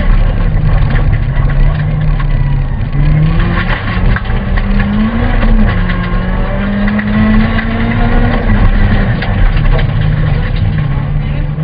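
Honda Civic VTi rally car's four-cylinder engine heard from inside the cabin, driven hard on a stage road: the engine note climbs and drops several times as the car accelerates and lifts, over steady road and tyre noise.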